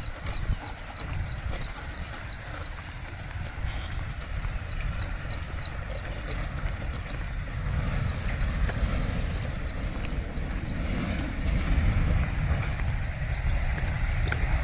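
A bird calling in bursts of short rising chirps, about five a second, each burst lasting two to three seconds with pauses between, over a steady low rumble.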